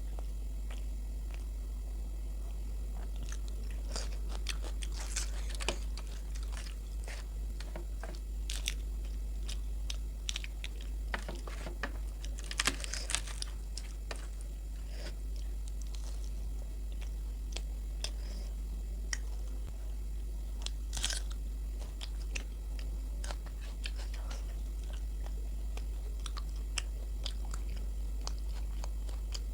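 Close-up eating sounds of luchi and aloor dum: chewing and biting, with many short wet mouth clicks and smacks coming in small clusters. A steady low hum runs underneath.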